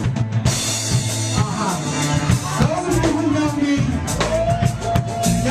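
Live funk and soul band playing, with drum kit and bass under a singing voice that holds a long note near the end.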